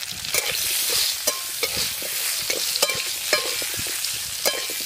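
Raw mango pieces and spices sizzling in hot mustard oil in an aluminium wok, stirred with a flat metal spatula that scrapes and clicks against the pan, ringing briefly a few times.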